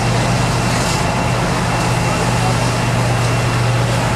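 Fire truck's engine running steadily with a constant low drone, under a continuous hiss.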